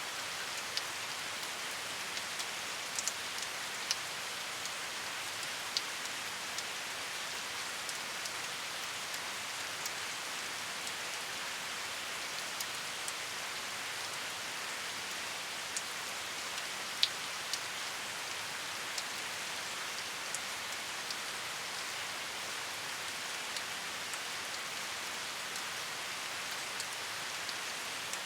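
Steady rain with an even hiss, and now and then a single louder drop tick landing close by.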